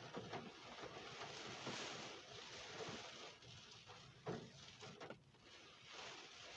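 Faint rain and wind from a storm, a rushing noise that swells and fades, with a couple of short knocks just after the middle.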